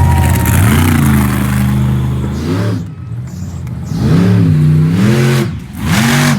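Monster truck engine revving hard three times: a low engine note climbs about a second in, drops away, then surges again around four seconds and once more near the end.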